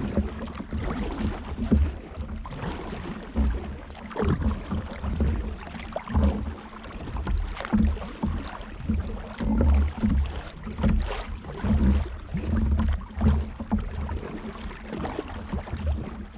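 Sea water slapping and lapping against a kayak's hull, with irregular low knocks about once a second over a steady wash of noise.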